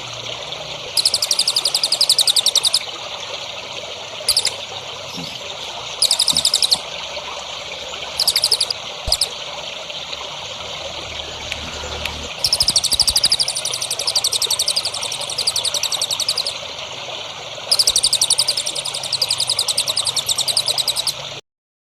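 A songbird giving bursts of very fast, high-pitched trilled notes, some brief and some lasting several seconds, over a steady trickle of running water. Everything cuts off abruptly shortly before the end.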